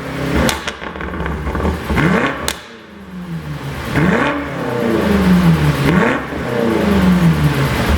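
BMW F90 M5's twin-turbo V8 revved repeatedly. The revs climb sharply and fall away several times, with sharp exhaust pops and crackles from a pop-and-crackle tune.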